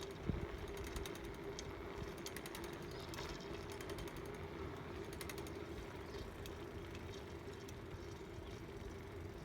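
Bicycle freewheel ticking in short runs of rapid, even clicks as the bike coasts, over a faint steady hum.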